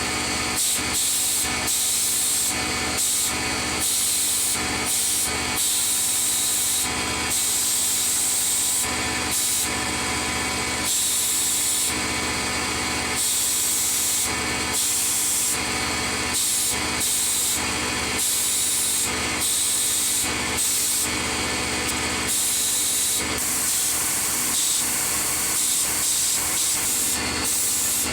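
A workshop tool at work on the compressor's parts: a continuous hissing, scouring noise over a steady machine hum, swelling and easing about once a second.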